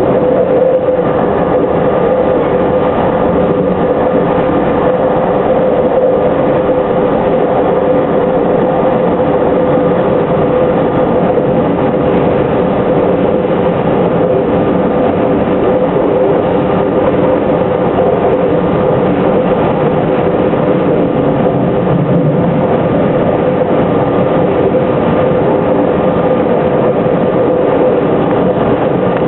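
JR Shikoku 8000 series electric train running at speed: a steady, loud running noise with a constant hum that holds level throughout.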